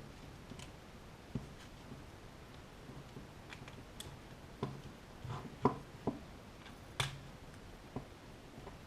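Scattered light clicks and taps, about a dozen at irregular intervals, from small tools and plastic parts being handled while a Sony Reader PRS-505 e-reader is taken apart to replace its battery. The sharpest clicks come a little past the middle and about seven seconds in.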